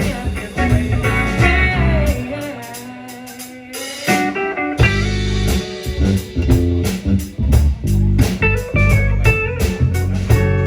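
A live band playing a song. About two seconds in the band thins out to a quieter, sparser passage, then comes back in full at about four seconds.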